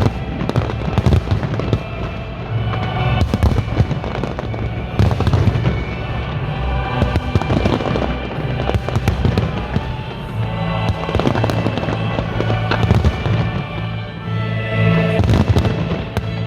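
Fireworks exploding in quick succession, many sharp bangs throughout, over loud music with a steady bass.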